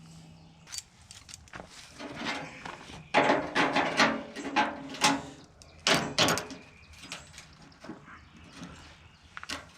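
MIG welder stitch-welding thin sheet steel: several short bursts of arc crackle and buzz with pauses between them, the longest lasting about two seconds.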